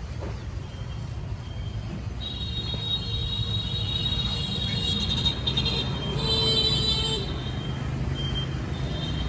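Road traffic rumbling steadily, with a high-pitched whine that comes in about two seconds in and fades out near the middle.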